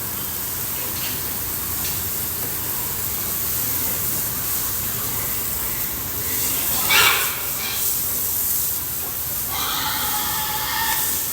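Steady hiss of a water spray washing pigs, with a pig squealing sharply about seven seconds in and again for a second or so near the end.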